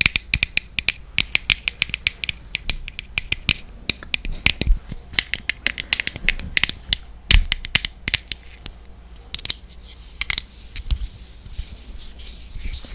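Fingernails tapping quickly and unevenly on a loose setting-powder jar close to the microphone, with a few heavier knocks. There is some scratching near the end.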